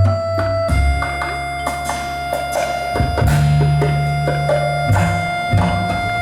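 A live band playing: one long held melody note over low double-bass notes, with drum and percussion hits.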